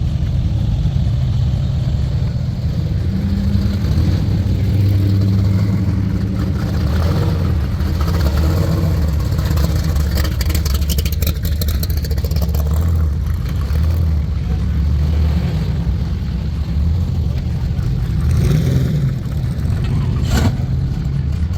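A car engine running steadily at low revs, with one short sharp click about twenty seconds in.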